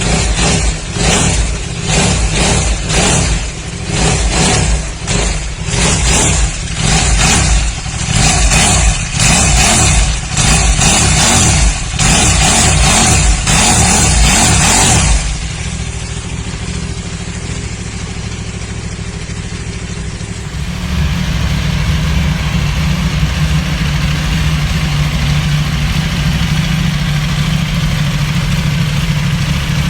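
KTM 1190 RC8's V-twin engine revved in quick, repeated throttle blips for about fifteen seconds, then settling to a steady idle that grows a little louder about two-thirds through.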